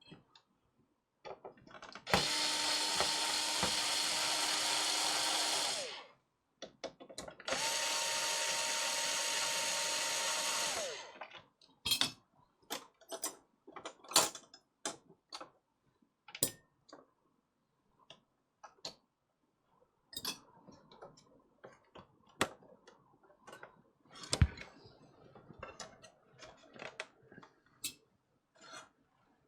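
Electric screwdriver running twice, about four seconds each, with its pitch sagging as it spins down at the end of each run. Scattered light clicks and taps of small parts and tools being handled follow.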